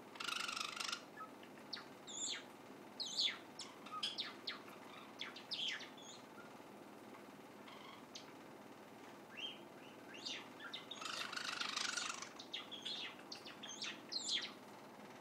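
Young white Java sparrow practising its song: a loose run of short, sharp chirping and clicking notes broken by two raspy, buzzy stretches of about a second each, one right at the start and one about eleven seconds in.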